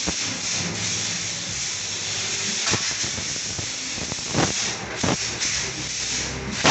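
Aerosol can of water-displacing oil spraying onto a bicycle's bolts and parts, a steady hiss in long bursts broken by a few light clicks and knocks.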